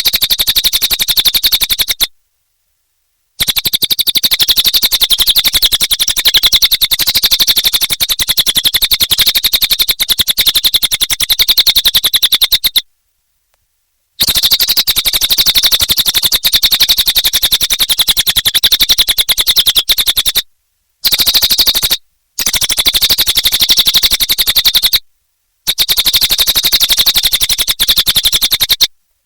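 Cililin bird singing a rapid, unbroken high-pitched trill in long runs, each cut off abruptly by a silence: near the start, about a third of the way in, twice shortly after the middle and once near the end.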